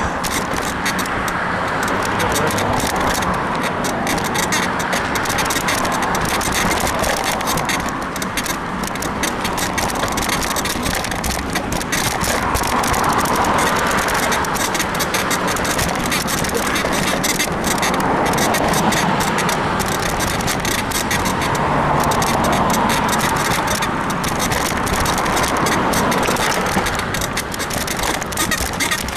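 Bicycle riding over rough sidewalk heard from a bike-mounted camera: steady tyre and wind noise with constant rattling and knocking over bumps, and creaking from the frame's rear suspension, which the rider puts down to a worn suspension bushing. The noise swells a few times along the way.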